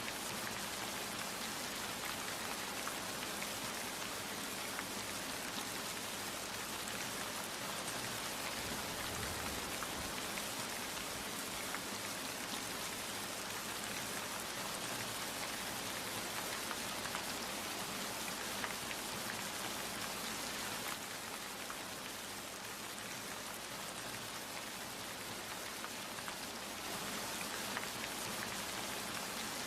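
Steady rain falling, a continuous hiss of drops with fine individual drop ticks, easing slightly for a few seconds past the middle.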